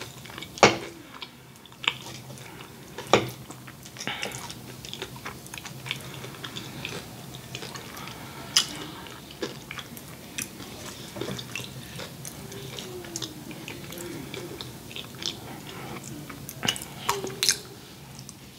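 Close-miked eating sounds: a person chewing food with wet mouth noises. Scattered sharp clicks and taps come from a metal fork picking food off the platter.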